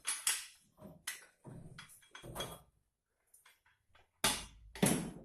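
Irregular metal clanks, scrapes and creaks from a bench vise holding a brass tap while its rusty fitting is being unscrewed. A cluster of short sharp noises comes first, then a pause, then two louder ones near the end.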